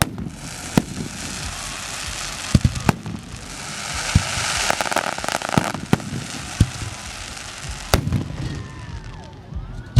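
Fireworks display: sharp bangs of shells bursting every second or so, with a rush of crackling that swells about four seconds in and dies away by six seconds.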